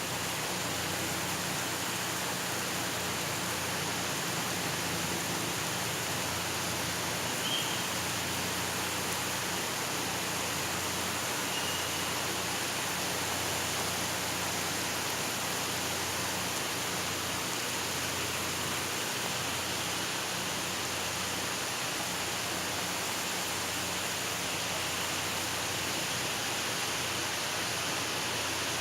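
Very heavy rain pouring down, a steady, even hiss with no let-up.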